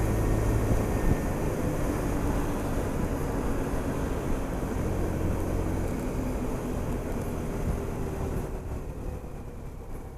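Honda SH 300i scooter's single-cylinder engine running under way, with wind and road noise, the whole sound falling away over the last few seconds as the scooter eases off.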